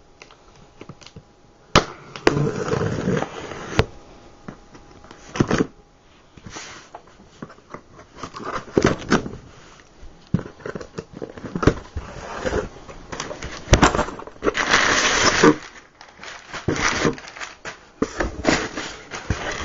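A shipping package being opened and unpacked by hand: irregular crackling and crinkling of packaging, with sharp knocks and clicks and a longer rustle about fifteen seconds in.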